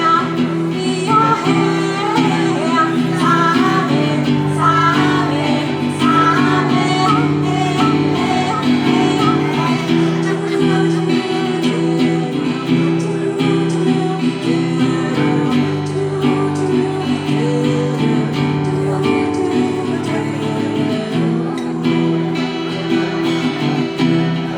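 Live music: a strummed acoustic guitar with singing over it.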